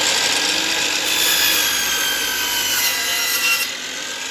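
Electric jigsaw cutting through a wooden board, a dense rasping noise with the motor's pitch sagging slowly under load. About three and a half seconds in the cutting noise thins out as the blade finishes the cut, leaving the motor running.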